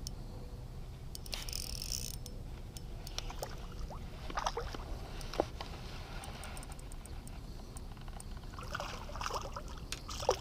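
Light water sloshing and dripping beside a kayak, with short gurgles about four seconds in and again near the end, a few small clicks, and a low steady rumble underneath.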